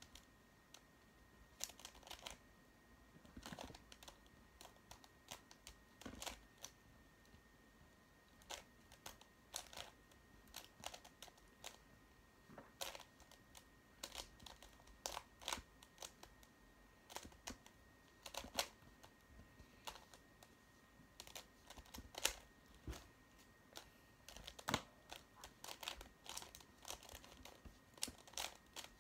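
Faint plastic clicks and clacks of a Square-1 twisty puzzle being turned by hand during a solve. They come in irregular runs of quick turns with short pauses between.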